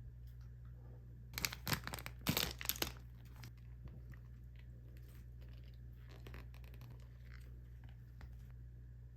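Close-up eating sounds: crunchy chewing and biting, loudest in a burst of clicks between about one and three seconds in, then fainter, sparser chews.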